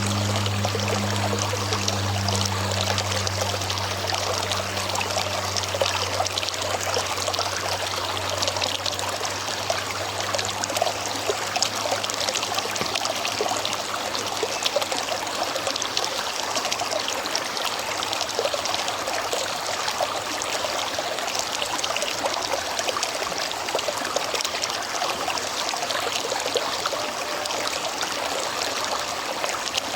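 River water flowing and splashing steadily over rocks, an even rushing hiss. A low hum sits underneath at first and fades out over the first ten seconds or so.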